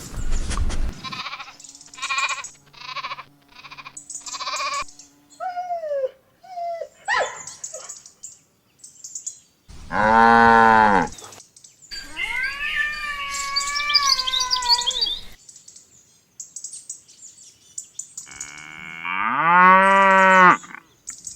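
A string of separate farm animal calls: short repeated calls in the first few seconds, then a cow mooing about ten seconds in, a higher, wavering bleat, and a second long moo near the end.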